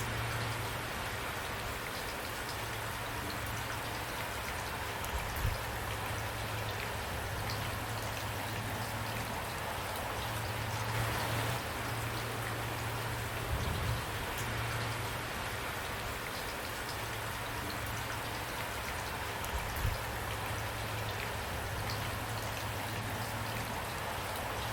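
Steady rain falling, an even hiss of drops with a few brief louder knocks of drops hitting a surface.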